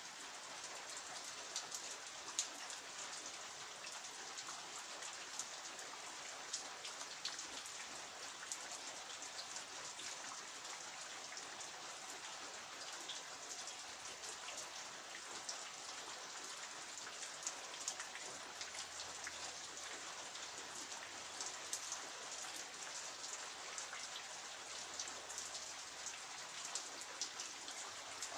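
Steady rain falling, a continuous patter with many distinct drops ticking against surfaces.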